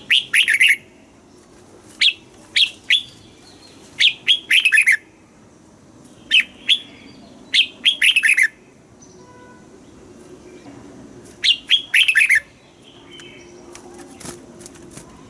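Red-whiskered bulbul singing: short, loud phrases of a few quick whistled notes, several sliding downward, repeated every second or two, with a pause of a few seconds midway.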